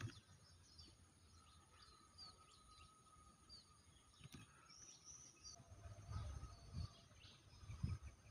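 Faint, short high bird chirps scattered throughout, over a steady thin background tone. A few low muffled thumps come in the second half.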